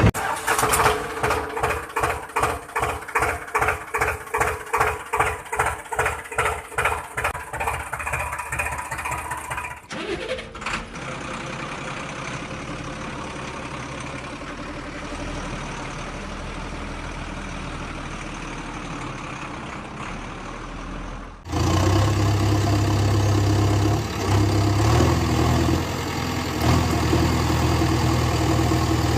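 Engine sounds in three abruptly cut segments. First comes a rhythmic chugging at about two to three beats a second. About ten seconds in it switches to a steadier, quieter hum with hiss, and about two-thirds of the way through to a louder, steady, low engine drone.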